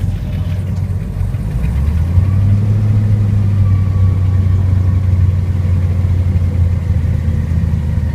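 Airboat engine and propeller running with a steady low drone, growing louder about two seconds in as the boat gets under way.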